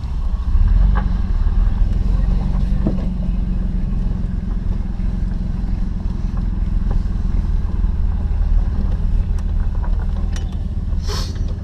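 Mazda pickup's 3.0-litre engine running steadily, heard from inside the cab; the truck has a passenger-side exhaust leak and its muffler chopped off. A brief hiss near the end.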